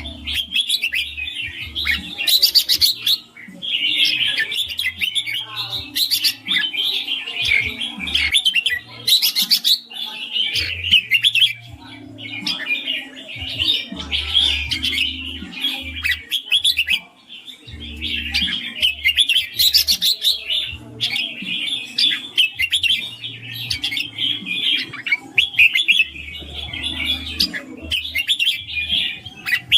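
Red-whiskered bulbul singing its continuous 'ring' song: long runs of rapid, bright chattering phrases with only short breaks between them.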